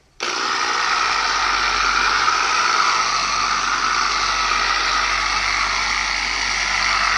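Electric buffer/polisher switched on about a quarter second in and running steadily, wet-buffing the painted motorcycle tank.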